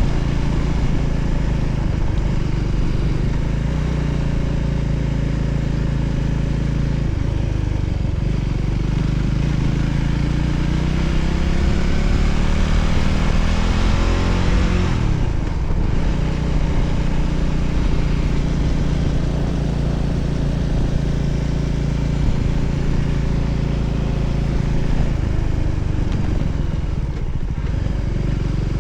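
Voge 300ACX motorcycle's single-cylinder engine running under way. Just past the middle its pitch rises for several seconds and then drops sharply, as on an upshift.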